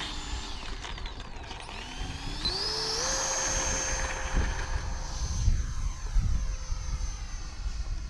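Electric ducted-fan motor of a radio-controlled F-86 jet spooling up with a rising whine about two seconds in, then holding a steady high whine at full throttle for takeoff. Wind rumbles on the microphone underneath.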